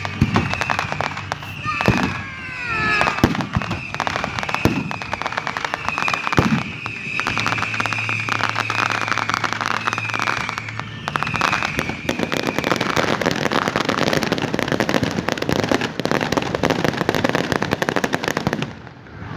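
Fireworks finale: shells bursting with repeated bangs over a high, wavering whistle, then a dense barrage of rapid crackling that drops off sharply near the end.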